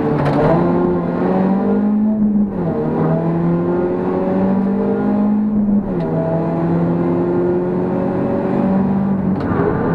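BMW E36 318ti Compact's decatted M44 1.9-litre four-cylinder engine pulling hard under load, heard from inside the cabin. Its note climbs slowly, then drops sharply twice, about two and a half and six seconds in, before climbing again.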